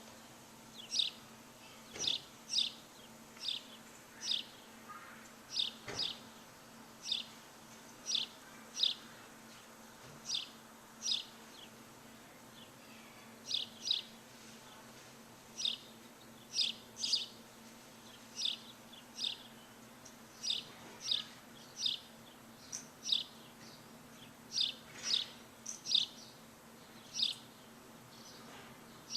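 A bird repeating short, high chirps that slide downward, often in pairs, about one every second or so, over a faint steady low hum.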